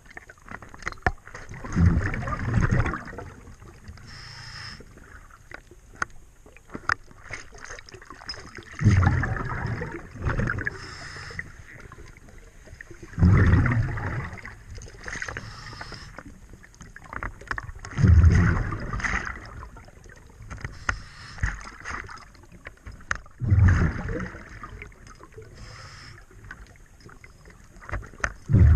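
Scuba diver's regulator breathing heard underwater: a rushing burst of exhaled bubbles about every four to five seconds, with faint clicks and ticks in between.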